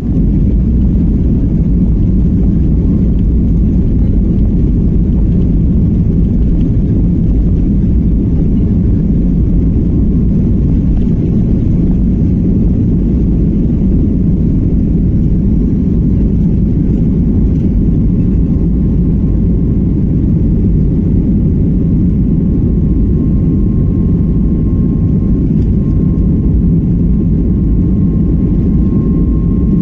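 Aircraft engines running with a steady, loud low rumble and a faint steady whine that grows slightly stronger near the end.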